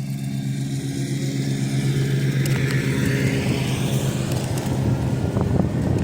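Road traffic heard while riding along a road: a steady low engine hum, a vehicle sweeping past about halfway through, and rushing wind and road noise building toward the end.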